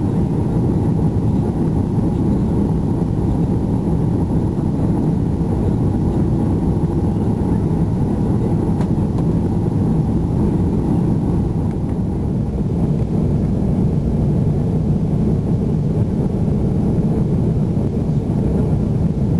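Steady low rumble of an Airbus A330's engines and airflow, heard from inside the passenger cabin.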